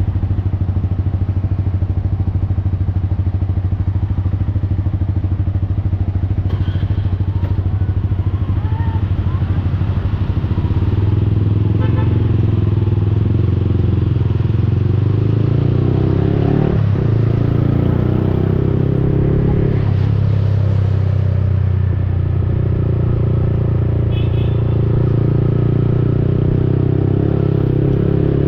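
Yamaha XSR155's single-cylinder engine running through an aftermarket Akrapovic-replica exhaust while riding in city traffic: a steady low exhaust note at first, then louder and fuller from about ten seconds in as the bike pulls harder, with a brief sharp break in the note about halfway through.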